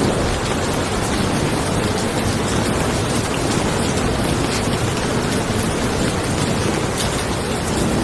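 Steady rain falling on a car: a dense, even hiss with scattered drop taps and a low rumble underneath.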